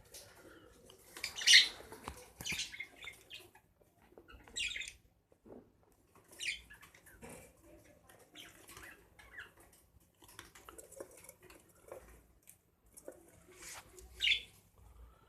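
Budgerigars chirping in short, scattered calls, the loudest about a second and a half in.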